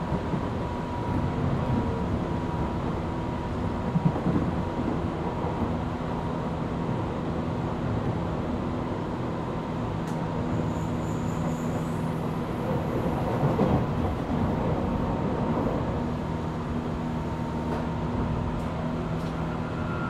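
Tobu 8000 series electric train running between stations, heard from inside motor car MoHa 8270: a steady rumble of motors and wheels on the rails with a continuous hum. A short louder rattle about four seconds in, and again around thirteen to fourteen seconds.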